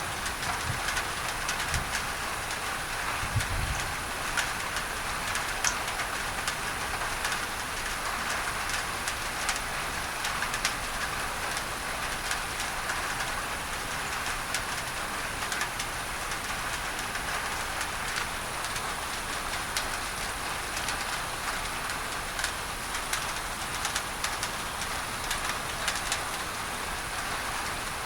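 Steady rain on a tin roof, many drops ticking on the metal, blended with an even masking hiss of pink noise.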